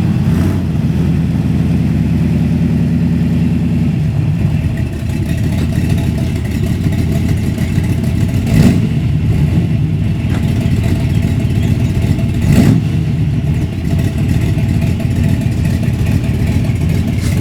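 A vehicle engine running steadily at low revs, with two short knocks about nine and thirteen seconds in.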